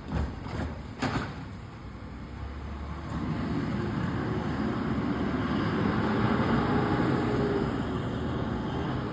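Garbage truck engine running, growing louder about three seconds in and then holding steady. Two short knocks come near the start.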